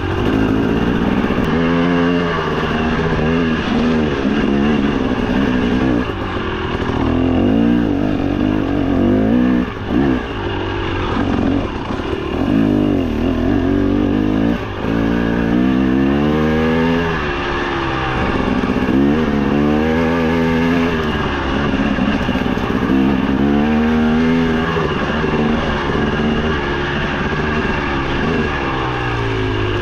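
Two-stroke single-cylinder dirt bike engine, a KTM 300 XC TBI, being ridden, revving up and falling back several times as the throttle is worked.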